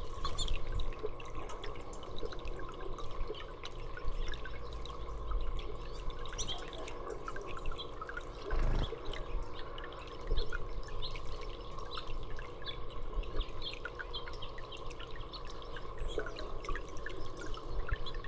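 Water trickling and dripping in many small irregular splashes over a faint steady hum.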